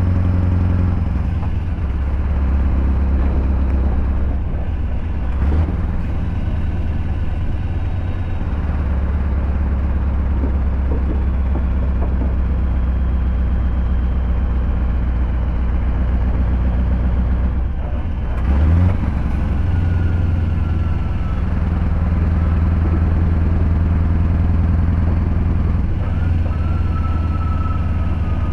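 Scania R580's straight-piped V8 diesel running steadily, with a short dip and rise in engine note about two-thirds of the way through.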